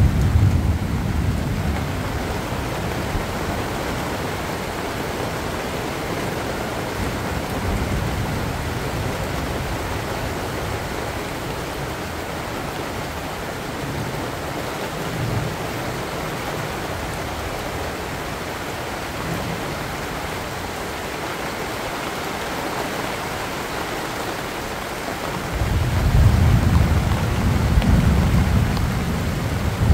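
Steady rain falling on banana plants' broad leaves, with low rumbles of thunder at the start and again, louder, over the last few seconds.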